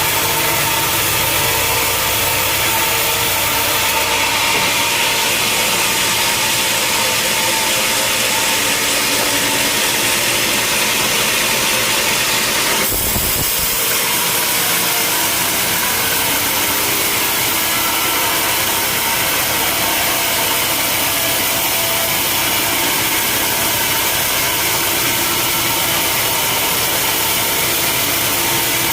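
Sawmill machinery running: a loud, steady mechanical drone with an engine-like hum, its tone changing abruptly about 13 seconds in.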